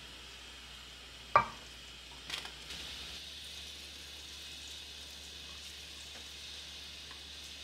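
A sharp knock about a second and a half in, then a few lighter clicks, and a steady sizzle of food frying in a pan.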